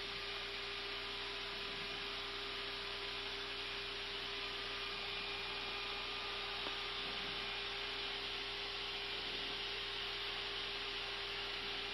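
Airbus A320 flight deck in the climb: a steady rush of airflow and engine noise with a constant steady hum, unchanging throughout.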